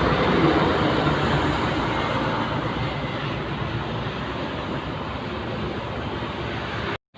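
Heavy truck passing on a highway, its engine and tyre noise loudest at first and fading over a few seconds as it moves away, leaving steady road traffic noise. The sound cuts out briefly near the end.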